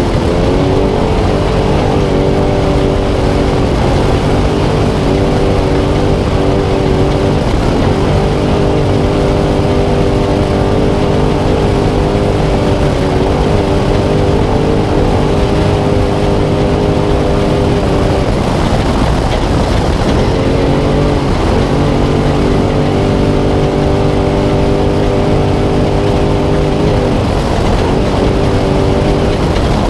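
Spec Trophy Truck's V8 engine held at high revs at racing speed. The throttle is lifted briefly a few times, longest about two-thirds of the way through, before it pulls again, all over a loud steady rush of wind, tyre and chassis noise.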